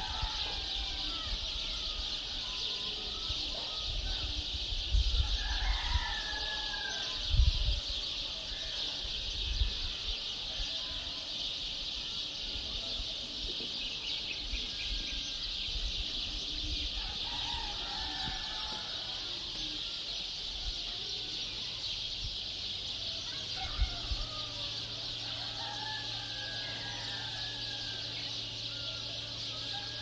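Birds calling, short rising and falling calls every few seconds over a steady high hiss. A few low thuds come in the first ten seconds.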